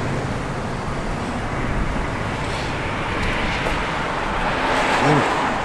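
Roadway traffic noise, a steady rush that swells as a vehicle passes between about three and five seconds in.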